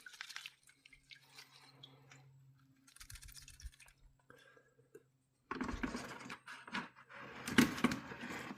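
Scrubbing and handling a metal stove-hood grease filter, rough scraping noise that grows louder in the second half. A low steady hum runs under the quieter middle part.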